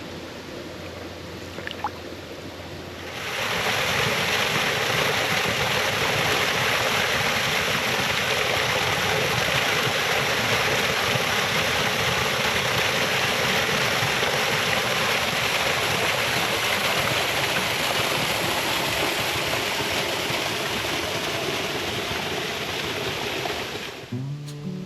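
Waterfall rushing: a steady hiss of falling water, faint at first, then jumping much louder about three seconds in and holding even until near the end.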